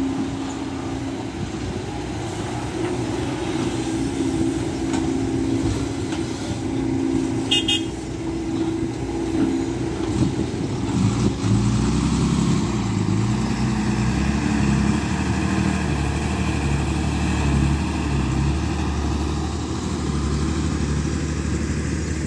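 Diesel engines of a SANY SY215C excavator and a ten-wheel dump truck running, the engine note rising and falling under load from about eleven seconds in. A brief high toot or beep about seven and a half seconds in.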